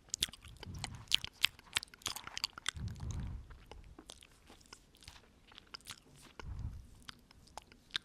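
Close-up mouth sounds: quick wet clicks and smacks of lips and tongue right at the microphone, thicker in the first half. Three breaths blow on the microphone, about a second in, at three seconds and near seven seconds.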